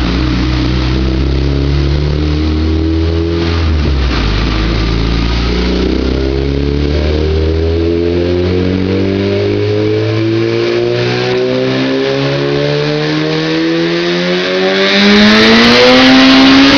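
Turbocharged Honda D16 engine in a Civic making a dyno pull. It runs steadily for about four seconds, then the revs climb in one long steady sweep, loudest near the end.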